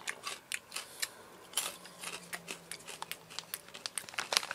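Close-up chewing of Boy Bawang fried corn kernels (cornick), heard as a fast run of sharp, dry crunches.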